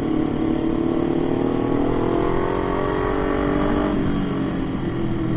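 Motorcycle engine accelerating under way: its pitch climbs for a couple of seconds and drops about four seconds in, as at a gear change, over a steady low rumble of wind and road noise.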